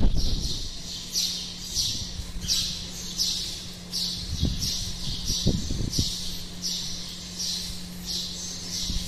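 A bird's high, scratchy call repeated regularly about twice a second, with a faint steady low hum and a few soft thumps underneath.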